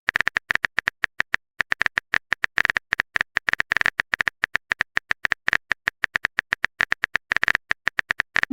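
Keyboard typing sound effect: a quick, irregular run of short clicks, about eight a second.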